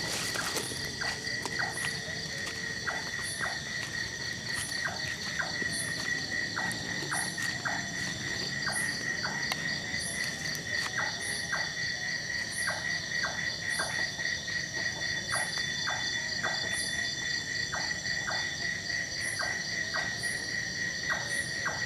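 Night chorus of insects: steady, continuous trilling at several pitches, with a short high chirp repeating about once a second and scattered short clicking calls a few times a second.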